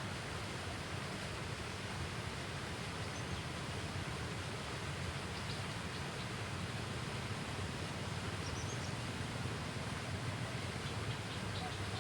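Steady outdoor background noise at the riverbank, with faint, short bird chirps a few times.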